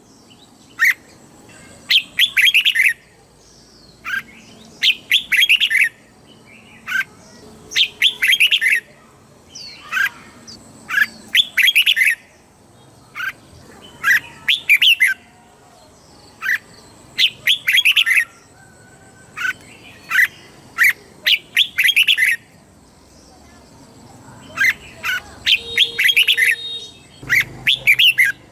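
Red-whiskered bulbul singing: short phrases of several quick, bright chirping notes, repeated every second or two.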